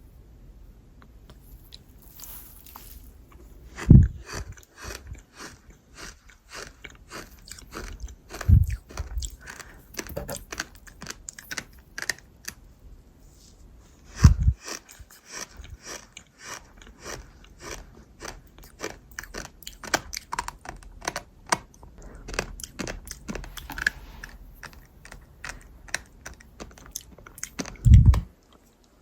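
A person chewing something crunchy and gritty close to the microphone: dense crackling crunches throughout, with a few louder, deeper bites about 4, 8, 14 and 28 seconds in.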